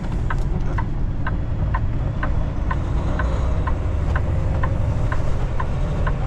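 Turn-signal indicator in a Kenworth T680 semi-truck cab clicking steadily, about two clicks a second, over the low rumble of the truck's diesel engine during a left turn.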